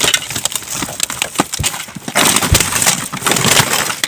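Rubbish being rummaged through and trodden on inside a dumpster: rustling bags and scattered knocks and crunches, with two dull thumps about a second and a half and two and a half seconds in.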